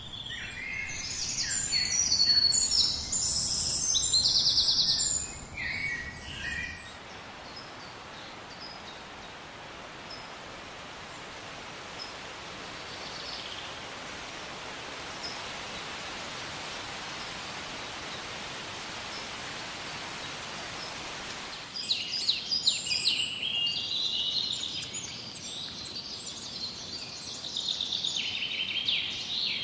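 Forest songbirds chirping and trilling, several at once. Near the end of the first quarter they give way abruptly to a steady, even hiss with only a few faint chirps, and the birdsong returns just as abruptly about two-thirds of the way through.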